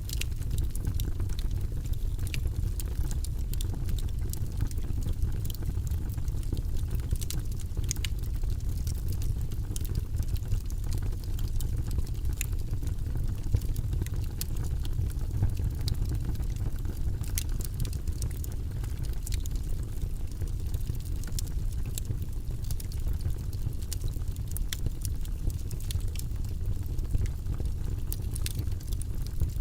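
Wood logs burning in a fireplace: a steady low rumble of flames with frequent, irregular sharp crackles and pops from the burning wood.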